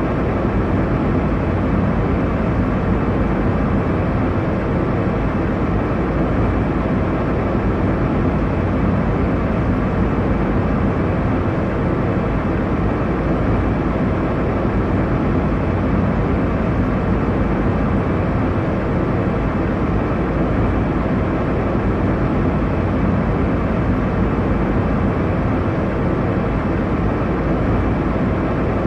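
Airliner cabin noise in flight: a steady, even rush and rumble, heaviest in the low and middle range, with no changes or distinct events.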